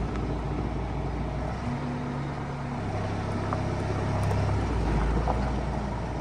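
A motor vehicle's engine running steadily, its low hum changing pitch a few times.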